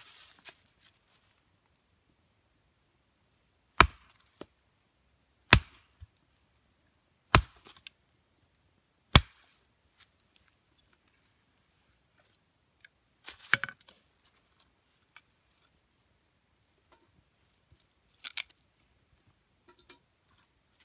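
Small wood being broken up for kindling: four sharp wooden cracks at an even pace, then a few softer cracks and rustles.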